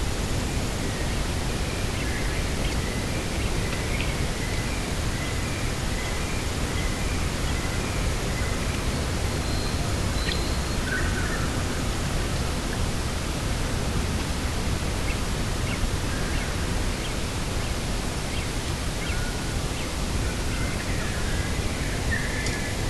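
Steady rushing wind over a coastal grass field, with faint, brief bird chirps scattered through it.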